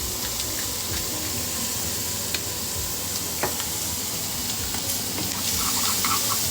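Bacon, mushrooms and shallots frying in oil in a pan, sizzling steadily as they caramelize, with a few faint clicks.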